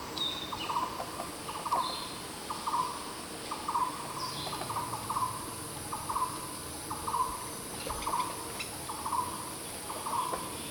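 Woodpecker tapping on wood while foraging for wood-boring insects: short flurries of quick taps repeating about every 0.7 s. Faint bird chirps and a steady high insect hiss run underneath.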